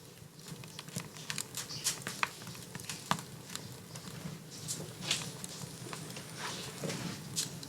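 Wood fire burning in a fireplace: irregular crackles with a few sharper pops over a low, steady rumble.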